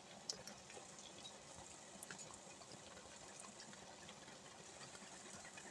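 Faint stovetop cooking: a low, steady hiss with scattered small crackles, from pans frying and a kettle heating toward the boil.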